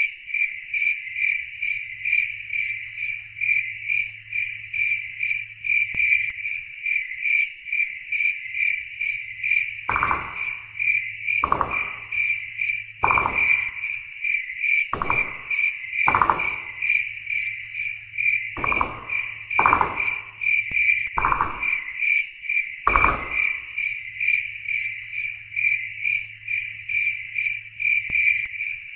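Crickets chirping in a steady, pulsing rhythm over a faint low hum. From about ten seconds in to about twenty-three seconds in, nine short, lower-pitched sounds come at irregular intervals.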